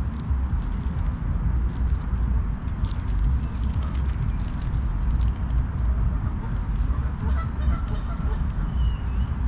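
Wind buffeting the microphone: a steady, gusty low rumble, with a few faint high calls near the end.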